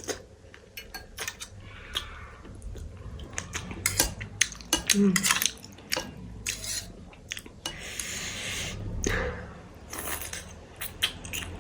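Cutlery clicking and scraping against a plate or bowl again and again while food is eaten, with a short hissing noise about eight seconds in.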